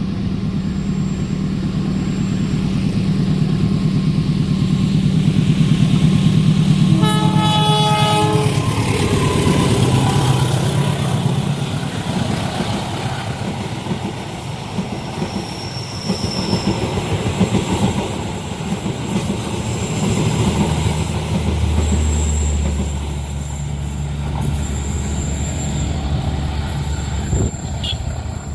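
A train passing at speed: its locomotive engine hums low, the horn sounds once for about a second and a half around seven seconds in, and then the cars rush past on the rails.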